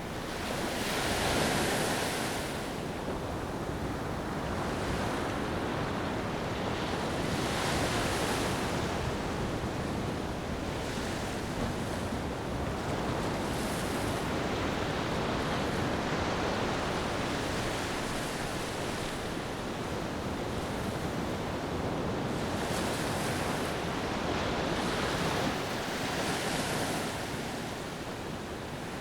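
Ocean waves washing onto a beach: a steady surf rush with hissing swells that rise and fade every few seconds as waves break and draw back.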